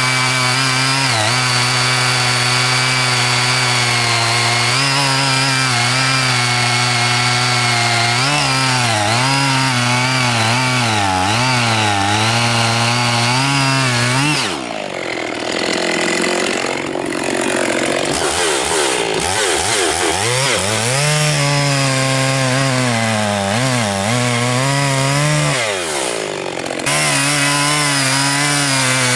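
Two-stroke chainsaw cutting wood at high revs, its engine pitch wavering as the chain bites. About halfway through the sound drops and the pitch sinks and climbs for several seconds, then the full cutting sound returns abruptly near the end.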